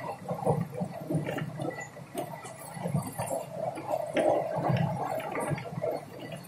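Moving train heard from inside the carriage: a steady low rumble with irregular rattles and short clicks.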